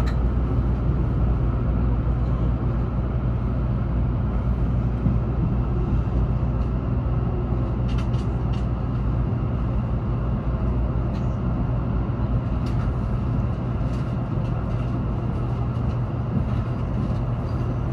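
Inside a Shinkansen passenger car: the train's steady running rumble with a low hum, as it slows to a stop at a station.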